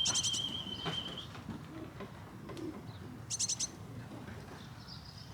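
Birds calling: a long, steady, high whistle-like note ends about a second in, and two short, rapid bursts of very high chirps come at the start and about three and a half seconds in.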